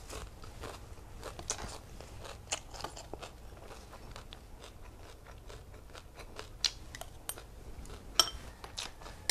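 A person chewing a mouthful of food close to a clip-on microphone, with soft crunches and wet mouth clicks. A metal spoon scoops rice from a glass bowl, with a sharp clink about eight seconds in.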